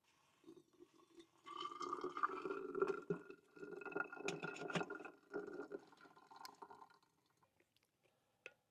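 Liquid being poured into a container, with a few light clinks, fading out after about seven seconds; a single click near the end.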